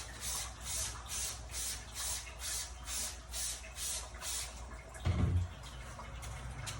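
Hand trigger sprayer squirted over and over onto dehumidifier coils, about two to three hissing sprays a second, wetting them with cleaning solution to loosen the dirt. The spraying stops about four and a half seconds in, and a low bump follows.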